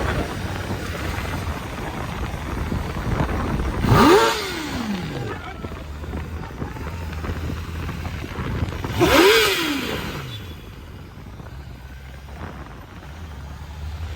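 Motorcycle engine running steadily, with two loud vehicle pass-bys about four and nine seconds in, each a short rising then falling whine as it goes past.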